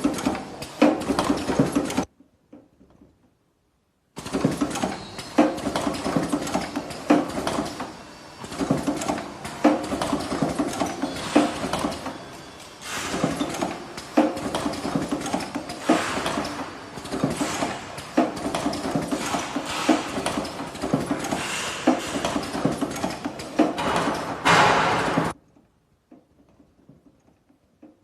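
Mechanical clattering and rapid clicking from a semi-automatic mask ear-loop welding machine, in an uneven run of sharp strikes. It breaks off into silence about two seconds in, resumes about two seconds later, and stops again near the end.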